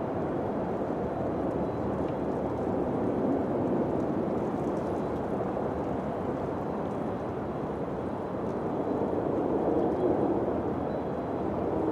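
Wind blowing: a steady low rushing that swells and eases twice.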